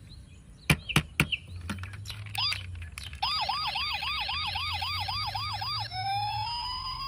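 Toy vehicle's electronic siren: a few sharp clicks, then a fast repeating yelp at about four cycles a second, changing about six seconds in to a slow rising-and-falling wail.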